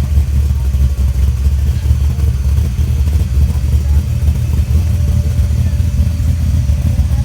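Classic car or hot rod engine running steadily, loud and low, with no revving.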